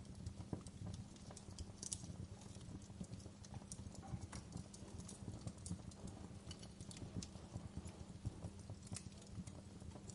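Wood fire crackling in a fireplace: irregular sharp pops and snaps, several a second, over a low steady rumble of burning. A couple of brighter pops stand out, about two seconds in and near the end.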